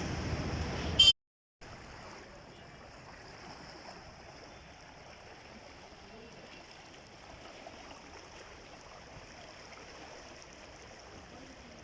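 Street noise that cuts off about a second in with a sharp click and a moment of silence; after that, a steady, faint rush of flowing water.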